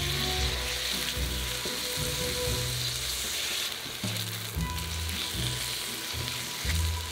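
Sliced mushrooms, green onions and garlic sizzling steadily as they sauté in a stainless steel pan.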